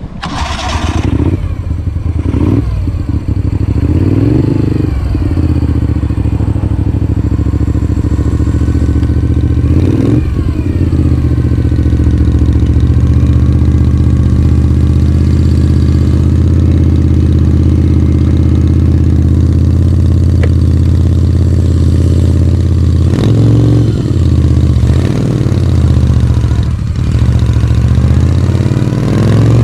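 Moto Guzzi V35 vintage V-twin motorcycle running under way, heard from on the bike. The revs rise and fall with gear changes in the first few seconds and again about ten seconds in, hold steady through the middle, and rise and fall again near the end.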